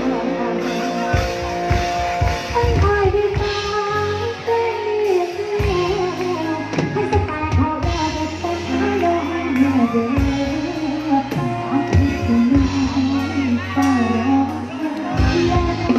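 Live band music with drum kit and guitar. A woman's voice comes in about two and a half seconds in, singing the melody over the band.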